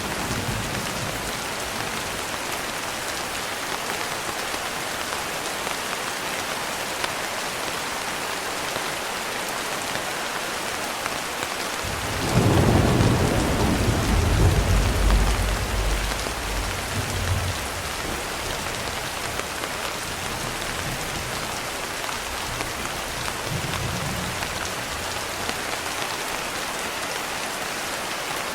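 Steady rain falling, with a low roll of thunder about twelve seconds in that swells for a few seconds and then fades, and a fainter rumble later.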